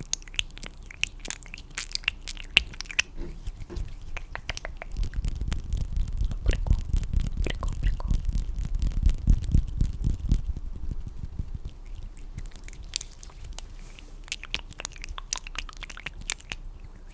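Close-miked wet mouth clicks and smacks, with a louder stretch of low rubbing and rustling in the middle.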